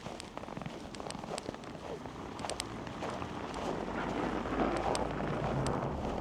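Footsteps crunching in snow, with a steady street rumble that grows louder over the second half.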